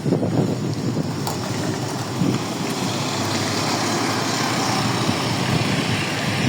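LiAZ-677M bus under way: steady engine and road rumble, with a single sharp knock about a second in.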